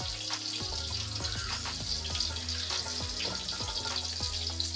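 Tempeh slices deep-frying in hot oil in a wok, a steady sizzle, with background music over it.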